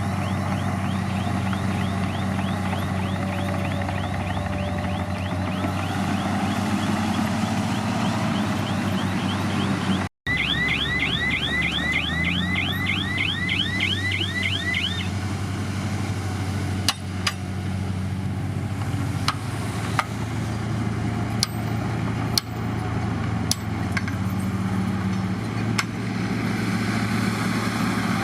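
Heavy diesel engine of a bulldozer or dump truck running steadily. For the first half a high chirp repeats several times a second, briefly cut off about ten seconds in and then faster and louder. Scattered sharp clanks come in the second half.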